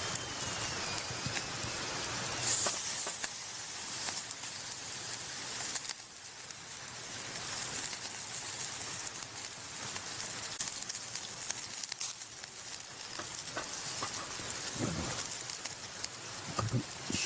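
Yakitori skewers sizzling and hissing over a charcoal grill. The sizzle flares up louder briefly about two and a half seconds in.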